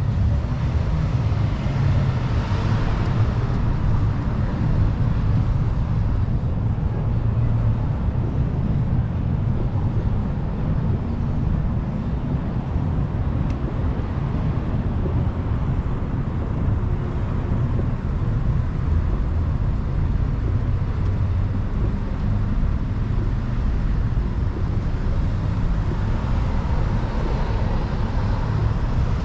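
Wind rumbling on the microphone of a moving bicycle, over road traffic noise. A vehicle passes about two seconds in and another near the end.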